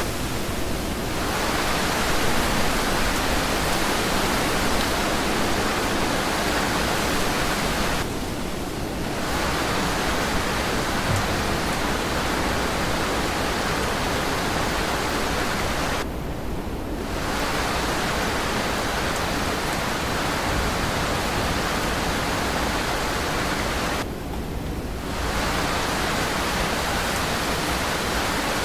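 Steady, dense rain hiss, as in a rain sound-effect track, which briefly thins for about a second roughly every eight seconds.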